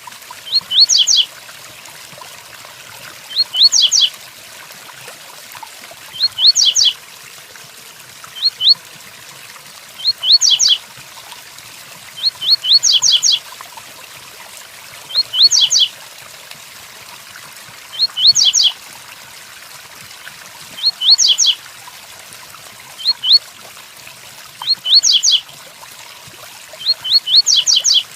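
Double-collared seedeater (coleiro) repeating its short, high 'tui-tuí' song phrase, a few quick rising notes, about every two to three seconds. Underneath is a steady rain sound.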